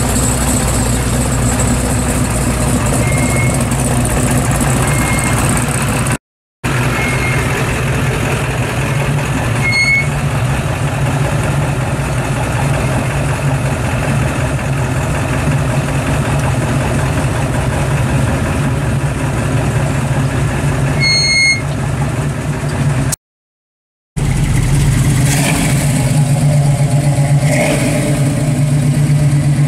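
Classic American muscle cars' engines and exhausts idling steadily with a low, even drone. The sound comes in three stretches, split by two brief drops to silence about six seconds and about twenty-three seconds in.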